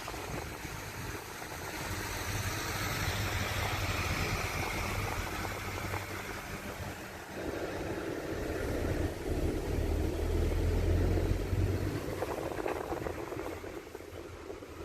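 Steady engine noise: a low rumble that swells in the second half, with a higher whine above it.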